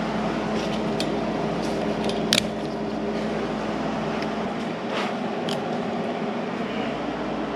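Hand tools clicking and tapping against car parts a few times, the sharpest click a little over two seconds in, over a steady machine hum.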